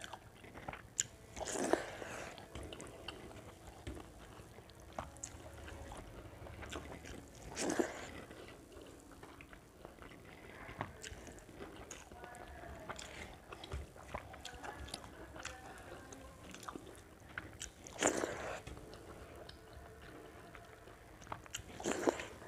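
Close-up eating sounds: a person chewing and smacking mouthfuls of rice and curry eaten by hand, with small wet clicks throughout and a few louder smacks.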